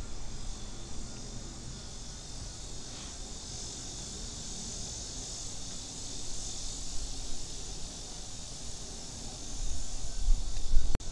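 Steady high buzzing of insects, swelling in the middle, over low wind rumble on the microphone that grows louder near the end, with one sharp click just before the end.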